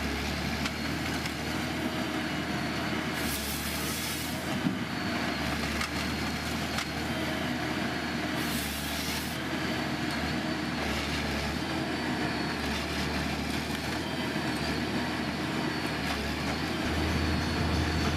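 Heavy machinery running steadily, with two short bursts of hiss about three and eight seconds in.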